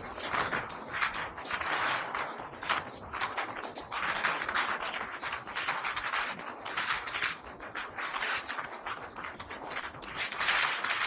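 Passenger train running, heard on board: a continuous noise of the coach rattling and creaking and the wheels on the rails, full of irregular clicks.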